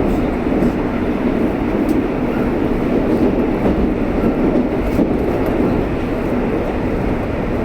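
Moscow Metro train running at speed between stations, a steady, even running noise of the wheels on the rails.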